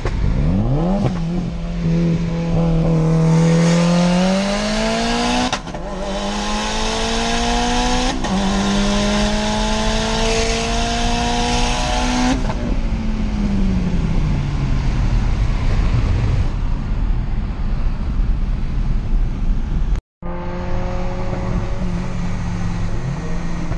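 Volkswagen GTI's turbocharged 2.0-litre four-cylinder, fitted with an IS38 turbo, heard from inside the cabin at full throttle. The revs climb, drop at an upshift about five and a half seconds in, climb again, drop at a second upshift about eight seconds in, then fall away as the driver lifts off near twelve seconds. After a brief cut near twenty seconds the engine runs steadily at cruise.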